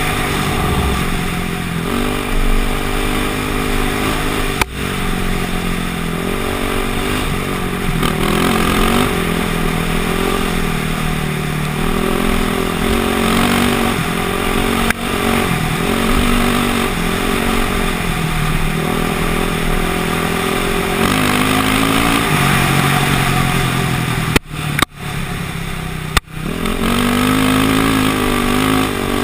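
KTM motocross bike engine revving up and down over and over as it is ridden off-road, with a lower, steadier stretch near the end. Twice near the end the sound drops out for a moment.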